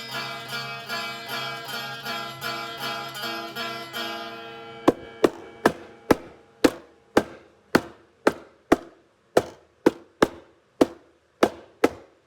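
Plucked-string backing music fading away, then a run of single drum strikes, about two a second, each ringing briefly.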